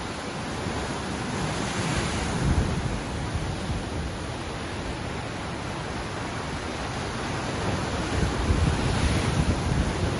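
Ocean waves washing onto the shore, swelling twice, about two seconds in and again near the end. Wind rumbles on the microphone throughout.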